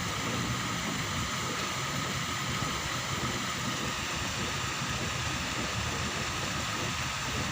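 Steady rushing background noise at an even level, with a faint steady hum.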